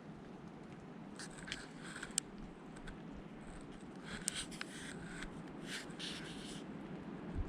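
Two short spells of dry scratching and rustling close to the microphone, the first about a second in and the second, longer, from about four seconds in, over a steady patter of rain.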